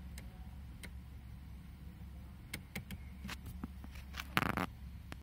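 Audi A3 8P engine idling, a low steady hum heard from inside the cabin, with a few faint clicks and a brief rattle about four and a half seconds in.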